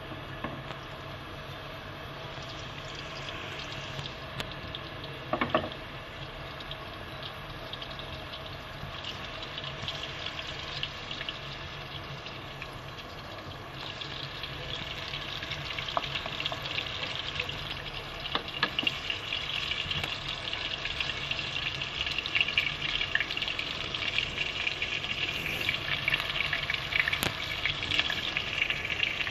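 Chicken kebabs shallow-frying in hot oil in a pan: a steady sizzle with crackles that grows louder about halfway through. There is a single knock about five seconds in.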